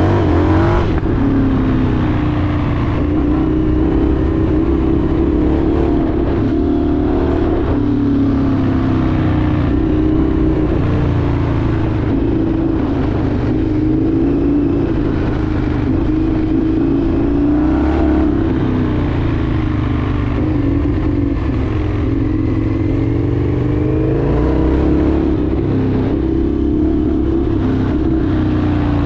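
Indian FTR 1200's V-twin engine running while riding, its note rising and falling over and over as the throttle opens and closes.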